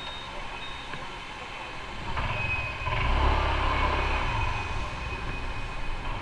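Motorcycle on the move: engine and road noise, swelling louder about two seconds in.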